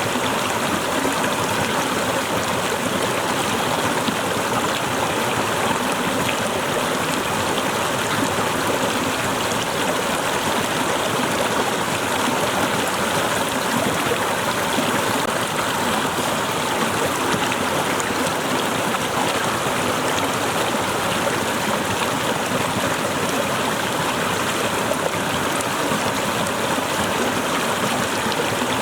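A small waterfall running steadily, its water splashing and gurgling in an even, unbroken rush.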